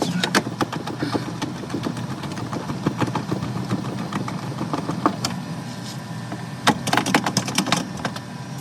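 Kenmore side-by-side refrigerator running with a steady mechanical hum, under scattered clicks and rattles of parts being handled, with a busy cluster of them about seven seconds in.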